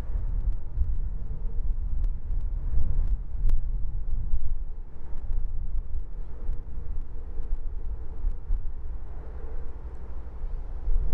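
Low rumble of an Amtrak diesel passenger train approaching through a railway tunnel, mixed with gusty wind noise on the microphone; a faint engine tone grows toward the end.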